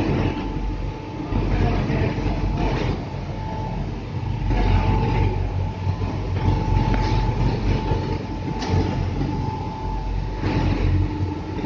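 Loading conveyor machinery running with a steady low hum and an on-and-off motor whine, with irregular clattering and rustling surges as bags travel along it.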